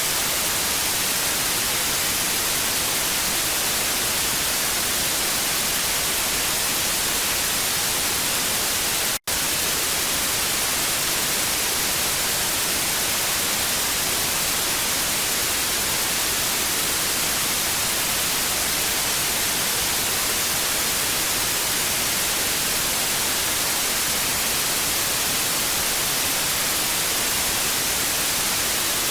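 Steady, bright hiss of TV static from a television with no signal, unchanging apart from a momentary cut-out about nine seconds in.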